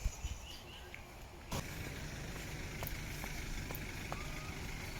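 Outdoor park ambience: a steady low rumble with a few short, faint bird chirps, and the background changes abruptly about one and a half seconds in.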